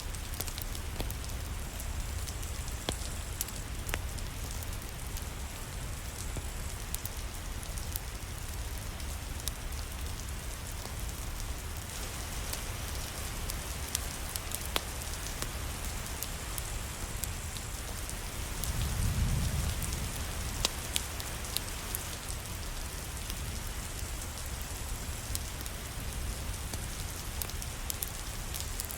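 Steady rain with scattered sharp ticks of drops or crackles, and a brief low rumble about two-thirds of the way through.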